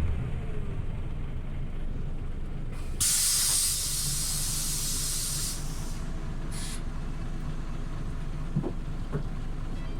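Scania OmniLink city bus engine running, with a loud hiss of released compressed air about three seconds in lasting about two and a half seconds, then a shorter hiss a second later: the bus's air system venting at a stop.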